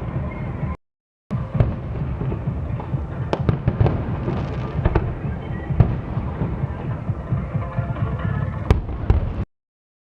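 Aerial fireworks display: a dense, continuous run of low booms and sharp crackling reports, with music underneath. The sound cuts out to dead silence twice, just under a second in and again near the end.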